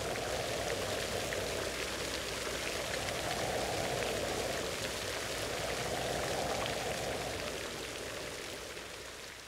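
Steady rain sound effect: an even hiss of rainfall with faint scattered drop ticks over a deeper rushing layer that swells and eases, fading a little near the end.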